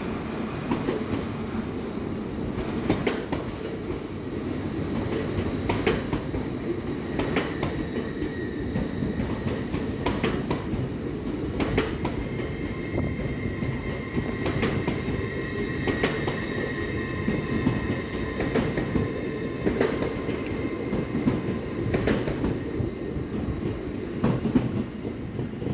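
Lumo Class 803 electric train running slowly past on the adjacent line, with a steady low rumble and its wheels clacking over rail joints every second or two. From about twelve to twenty-one seconds in, a high steady whine rides over the rumble.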